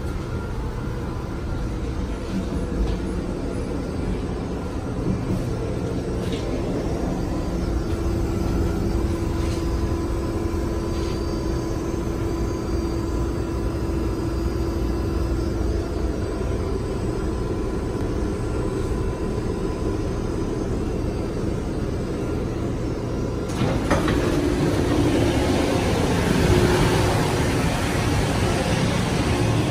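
Inside a Metro-North M3A electric railcar as it comes into the station: a steady rumble and hum with a faint steady whine. About 24 s in the doors open with a sudden clunk, and a louder hissing noise takes over.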